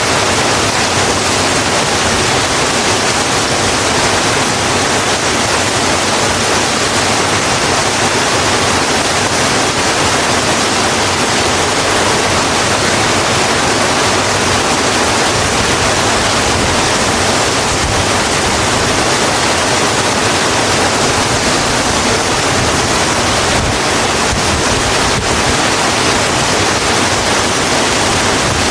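Steady heavy rain, an even hiss of falling water with no individual drops standing out.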